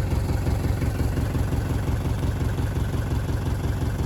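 Mercedes-Benz 240D's 2.4-litre four-cylinder diesel idling steadily with an even rhythmic clatter, on an engine that has its valves long out of adjustment and runs with a shudder.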